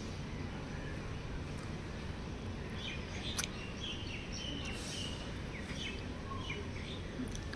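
Birds chirping in short high notes, mostly from a few seconds in, over a steady low rumble of background noise, with one sharp click partway through.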